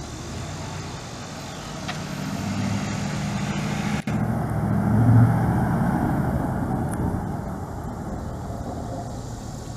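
A fire apparatus engine drives past, growing louder to a peak about five seconds in and then fading away. There is a momentary break in the sound just after four seconds.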